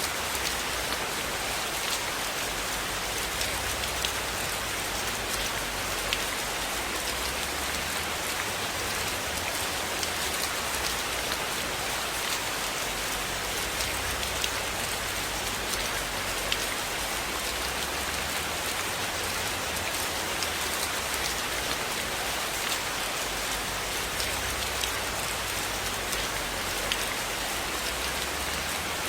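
Steady rain falling, a dense even hiss with scattered sharp ticks of single drops or crackles.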